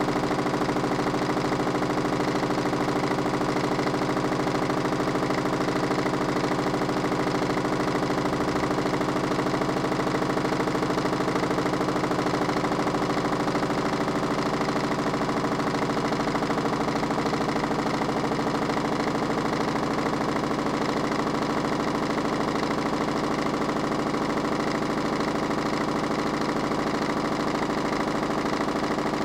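Minicolo mini washing machine running steadily with a continuous motor hum.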